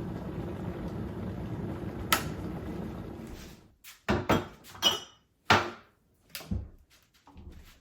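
Kitchen sounds: a steady low rumble dies away about three and a half seconds in, then a run of sharp clacks and knocks of dishes and utensils being set down and a cupboard being closed.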